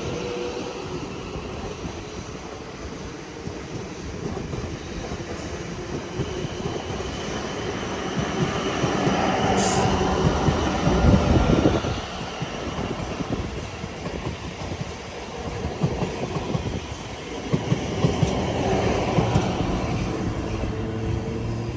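A train running past on the main line, growing louder to a peak about ten seconds in and dropping off sharply soon after, then swelling again with sharp rail clicks near the end. A brief high squeal sounds just before the loudest part.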